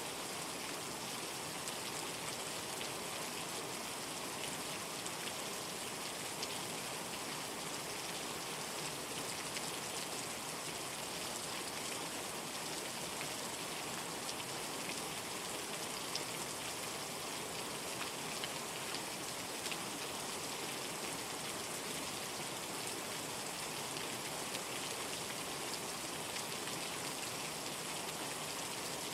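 Steady heavy rain falling, a dense even hiss with fine scattered drop ticks.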